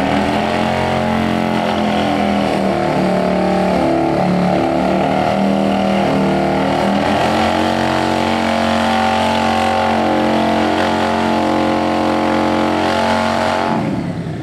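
Harley-Davidson V-twin engine held at high revs during a burnout. The pitch wavers a little, then the engine drops off sharply near the end.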